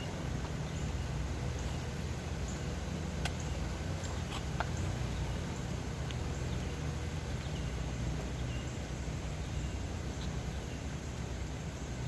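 Steady low rumble of a car running, with a few faint short high chirps and a couple of sharp clicks a few seconds in.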